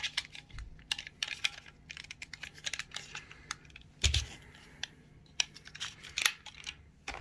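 Hard plastic parts and attachments of a cordless stick vacuum being handled: a run of irregular clicks and light knocks, with duller thumps about half a second in and again about four seconds in.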